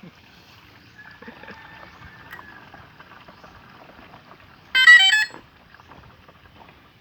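A short, loud electronic alert of stepped tones about five seconds in, over a faint background hiss.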